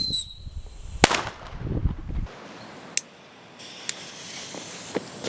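Whistling ground-mover firework (Groundmouse): a falling whistle trails off at the start, then one sharp bang about a second in, followed by a few fainter cracks.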